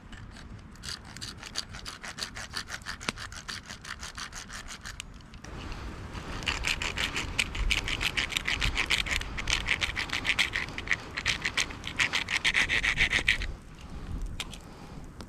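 A hand tool working wood in quick, even back-and-forth strokes: a lighter run of scraping strokes, a short break, then a louder, harder run that stops shortly before the end.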